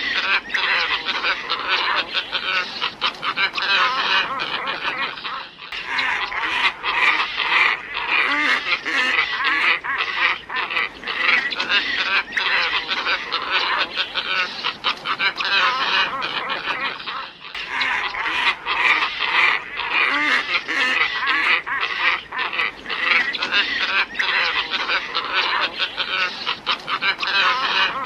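A flock of glossy ibis calling continuously in a dense chorus of overlapping calls. It is a recording that loops, with a brief seam about every twelve seconds.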